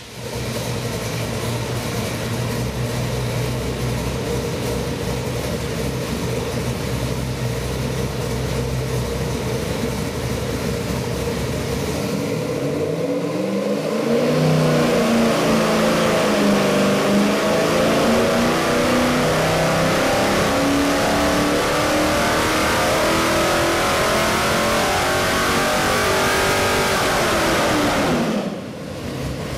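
Chrysler 408 stroker small-block V8, a carbureted 360 roller block, running on the dyno. It holds a steady idle for about twelve seconds. After a short break it makes a long pull, the engine note rising steadily for about thirteen seconds, then dropping off near the end.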